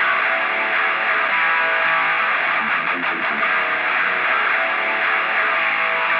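Music: distorted electric guitar holding sustained chords, a rock intro without drums.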